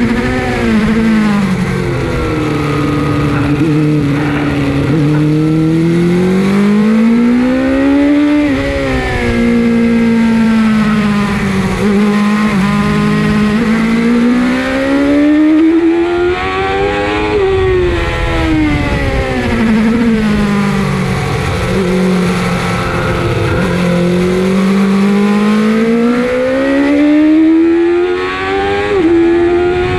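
Suzuki GSX-R 750 SRAD's inline-four engine heard from on board, the revs climbing under throttle and falling away as it slows, in long sweeps that peak twice and climb again near the end.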